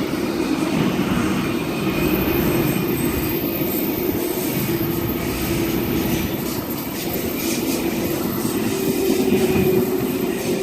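Sydney Trains K-set double-deck electric train running along platform 1: a steady rumble of wheels on rail with a constant low hum.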